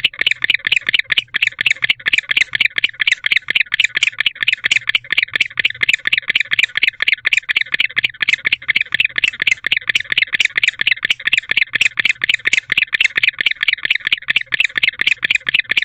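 Male barn owl chirping continuously in a fast, even series of short, high chirps, about six a second. This is his courtship call, made to draw the female to the nest box.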